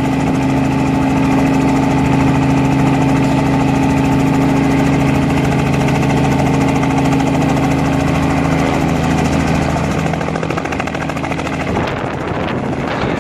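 Helicopter turbine and rotor running steadily, a constant pitched hum over a dense drone; the sound shifts and eases slightly near the end.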